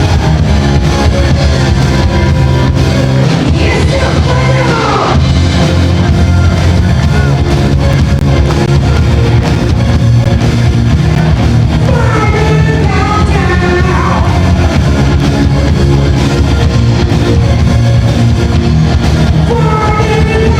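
Rock band playing live and loudly, with guitars and drums. A singer's voice comes in about four seconds in, again around twelve to fourteen seconds, and near the end.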